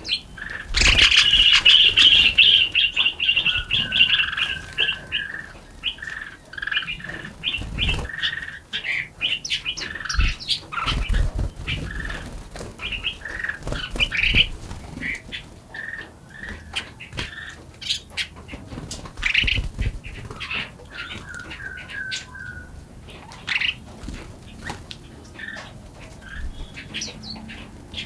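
Small forest songbirds chirping and singing: a dense run of quick chirps and trills, loudest in the first few seconds, then scattered calls. A few short low thuds are mixed in.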